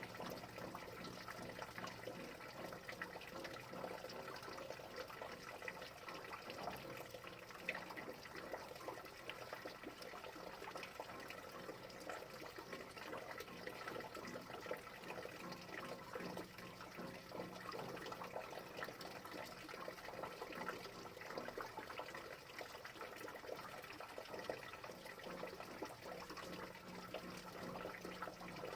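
Steady rain, with many small separate drops ticking and dripping over an even wash of falling water.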